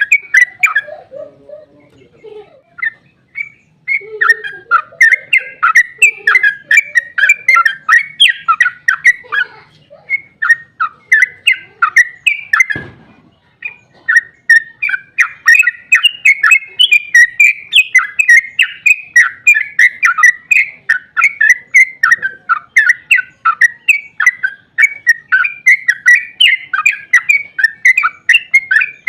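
Yellow-vented bulbul (trucukan) song in long, rapid runs of chattering notes, several a second, with a lull early on and a brief break about halfway through where a single soft thump is heard.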